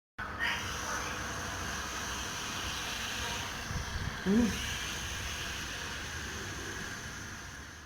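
Small electric fan and motors of a floor-drying robot running with a steady whirring hiss. About four seconds in, a short low bump and a brief rising sound.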